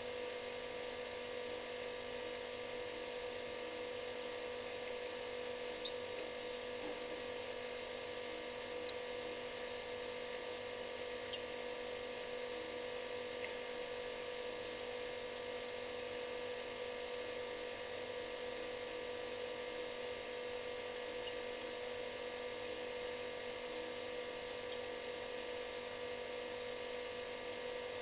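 Refrigerator running with a steady electric buzz: one strong hum tone with many fainter tones above it over a light hiss, unchanging throughout.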